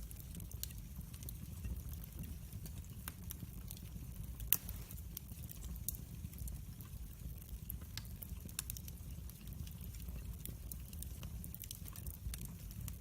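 Wood fire burning in a fireplace, with a steady low rumble and scattered sharp crackles and pops, the loudest pop about four and a half seconds in.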